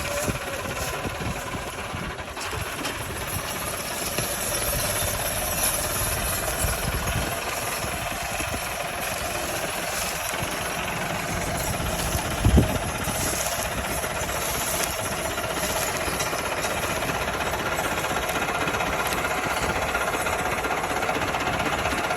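Diesel tractor engines running steadily under the load of a heavily loaded sugarcane trolley. There is one short loud thump a little past halfway.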